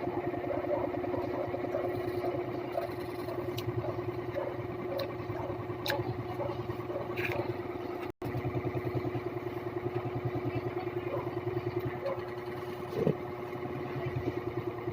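A small engine running steadily at idle, as a low, evenly pulsing hum, with a few faint clicks over it. The sound cuts out for a split second about eight seconds in.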